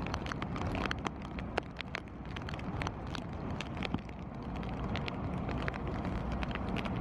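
Raindrops striking the camera's housing and lens in irregular sharp ticks, over a steady low rumble of wind on the microphone.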